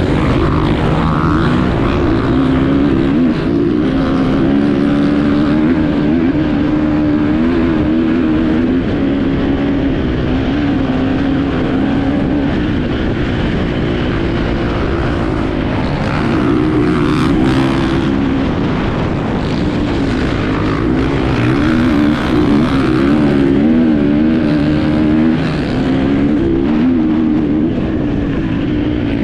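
Enduro motorcycle engine running under load as the bike is ridden, its pitch rising and falling constantly with the throttle.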